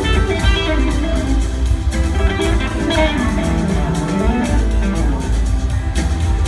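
Live blues-rock band jamming: electric guitar playing a melodic line that slides up and down in pitch, over drum kit and bass.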